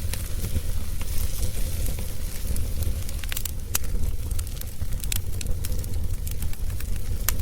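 Wood fire crackling: scattered sharp pops and snaps, more frequent in the second half, over a steady low rumble.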